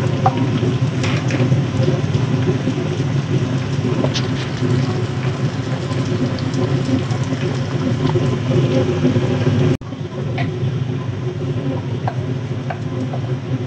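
Oil sizzling steadily in a wok while ground red chili paste for balado is scraped in from a glass bowl. Light spatula clicks sound against the pan and bowl over a steady low hum.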